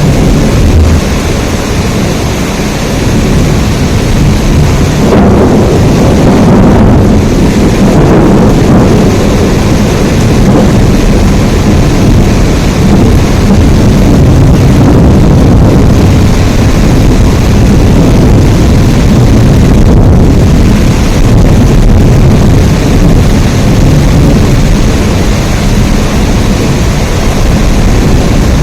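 Heavy, steady rain in a thunderstorm, with a low rumble that swells about five seconds in and again a few seconds later.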